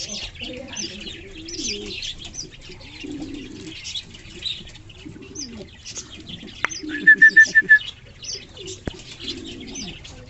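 Birds calling: repeated low, downward-sliding cooing calls over steady high chirping. A quick run of five evenly spaced higher notes about seven seconds in is the loudest sound.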